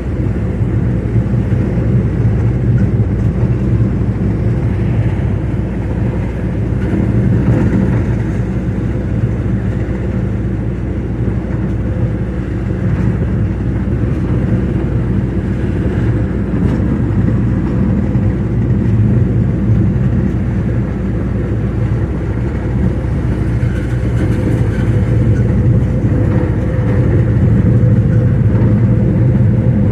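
A road vehicle's engine running steadily, an even drone that holds the same pitch throughout.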